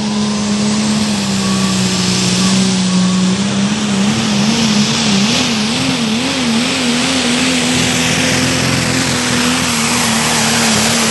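Truck or tractor pulling engine running hard under load, a loud continuous roar whose pitch dips slightly, then wavers up and down several times before holding steady.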